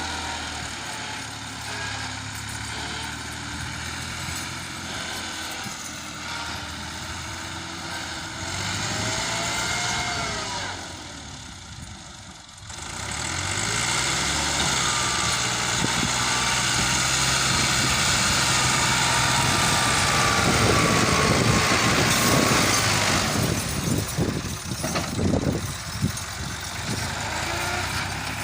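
Massey Ferguson 260 tractor's diesel engine running hard, its pitch rising and falling as it is revved. It drops away briefly near the middle, then comes back louder and rougher for the second half, surging unevenly near the end.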